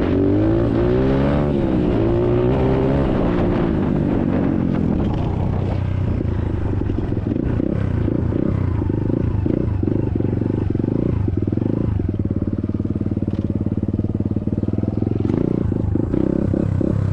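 SSR 150cc dirt bike's single-cylinder four-stroke engine under hard acceleration, its pitch climbing and dropping several times through the gear changes in the first five seconds, then running steady at high revs at speed.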